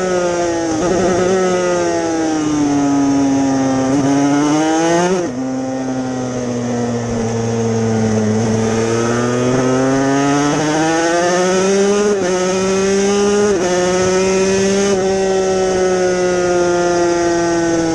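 Yamaha TZ250 two-stroke racing motorcycle engine at high revs under racing load. The pitch climbs, drops sharply about five seconds in and sags slowly as the rider eases off, then climbs back up, with two quick dips near the end, like gear shifts.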